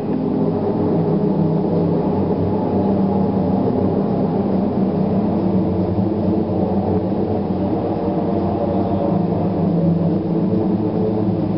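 Aircraft engines overhead, a loud, steady low drone that holds its pitch.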